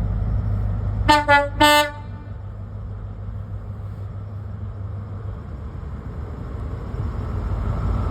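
A High Speed Train's Class 43 diesel power car sounds its horn in two short blasts about a second in, the first stepping down slightly in pitch. Beneath the horn is the steady low rumble of the train passing slowly, which grows louder near the end.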